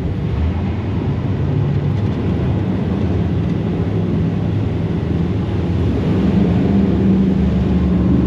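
Jet boat engine running steadily with a low drone; a slightly higher, steadier tone joins about six seconds in.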